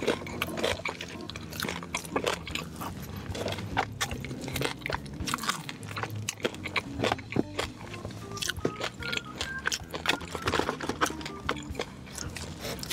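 Close-up chewing and crunching of crispy fried food, with many sharp crunches, over soft background music.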